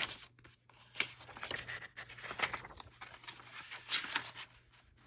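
Sheets of paper and card being handled and shuffled on a table, with rustling swells about a second in, halfway through and near the end.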